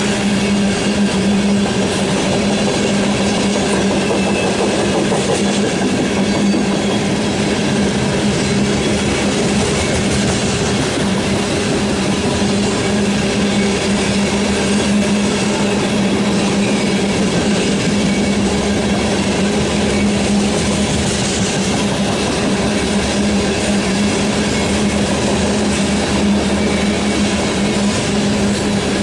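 Freight train rolling past, its wheels running steadily on the rails, with a steady hum throughout and no change in loudness.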